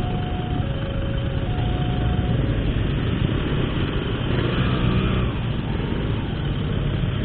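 Motorcycle engine with an Altech C17 aftermarket exhaust running at low revs in slow traffic, a steady low rumble. Through the first two seconds or so, a two-tone electronic warning signal alternates high and low. A swell of traffic noise comes around the middle.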